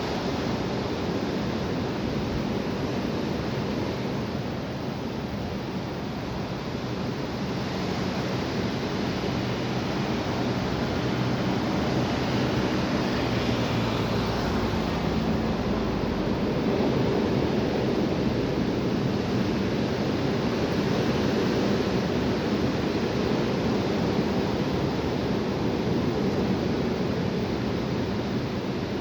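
Strong wind blowing in a steady rush, swelling a little louder about ten seconds in.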